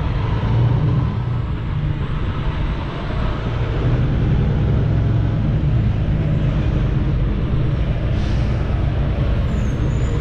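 International LT semi truck's diesel engine running steadily at low speed, a low, even hum.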